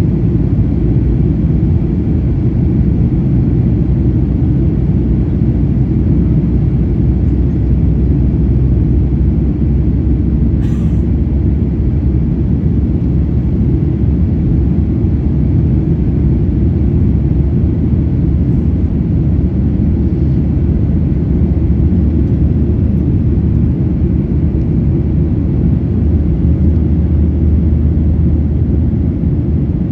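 Steady low rumble of a Boeing 737-800's CFM56 turbofan engines and airflow, heard from inside the passenger cabin.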